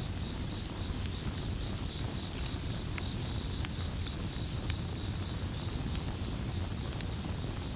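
Campfire burning with a low steady rumble and scattered sharp crackles and pops, under a steady high chirping chorus of crickets.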